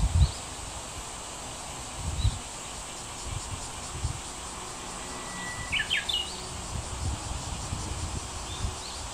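Wild birds calling: a few scattered short high chirps, and about five to six seconds in a brief held whistle followed by a quick run of sharp notes. Under them run a steady faint high insect hum and irregular low rumbles.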